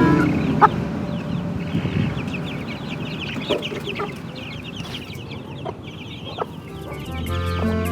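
Chickens clucking, with a long run of quick, high, short chirps from about two seconds in, over a steady low rustling background. Background music comes back in near the end.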